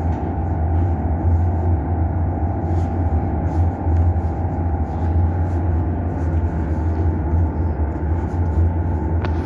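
A steady low mechanical drone with a constant higher hum over it, unchanging throughout.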